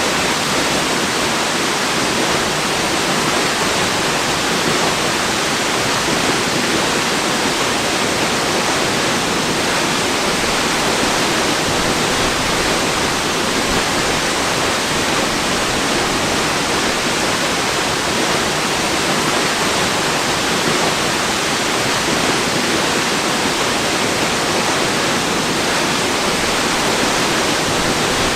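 Waterfall rushing in a steady, unbroken roar of falling water, with no changes or separate splashes.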